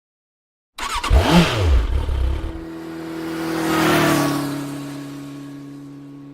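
Motorcycle engine revving, then passing by: it swells to a peak about four seconds in, drops slightly in pitch as it goes past, and fades.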